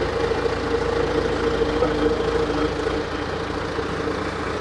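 Heavy equipment engine running steadily at idle, a constant hum.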